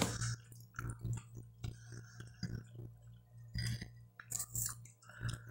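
Close-up chewing of a mouthful of rice and beans: soft, irregular wet clicks and smacks of the mouth, over a steady low hum.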